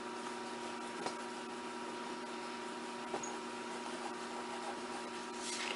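A steady hum made of several fixed tones, like a running household appliance, with a couple of faint ticks.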